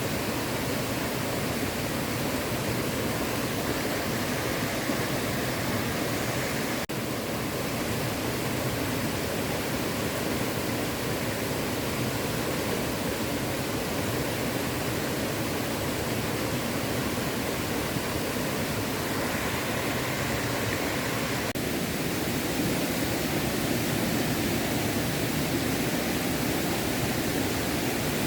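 Small stream flowing: a steady rushing of water, briefly cut about seven seconds in and a little louder over the last few seconds.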